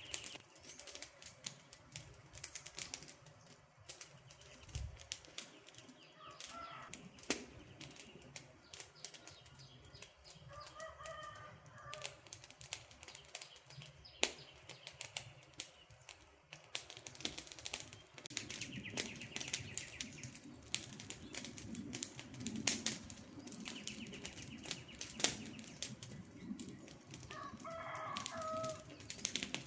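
Wood campfire crackling, with a steady run of irregular sharp pops and snaps. A bird calls briefly a few times over it, about a quarter and a third of the way in and again near the end.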